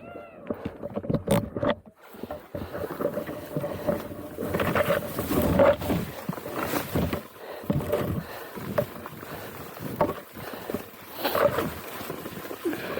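Enduro motorcycle engine running and revving unevenly, with repeated surges of throttle over a steady engine note.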